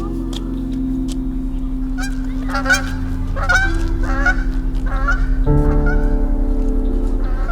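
A bird honking about half a dozen times in quick succession, over sustained background music.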